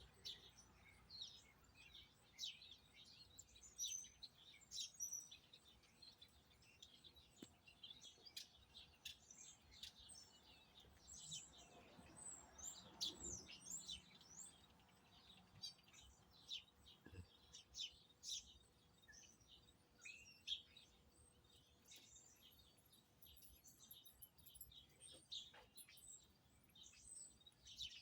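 Small birds chirping: many short, high chirps from several birds, overlapping and coming thick and fast.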